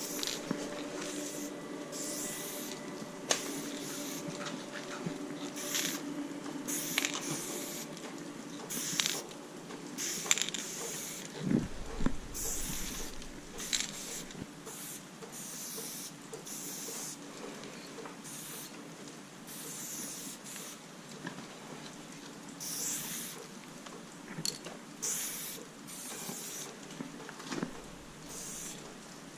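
Aerosol spray-paint can hissing in many short bursts of varying length, stopping and starting as graffiti letters are painted.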